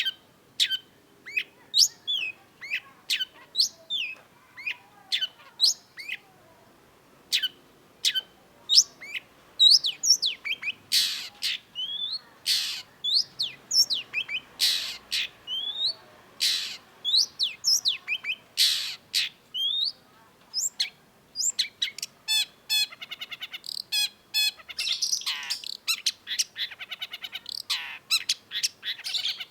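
Long-tailed shrike (cendet) singing a rapid string of short, sharp, downward-sweeping notes. From about two-thirds of the way in, fast buzzy, rattling trills join the notes.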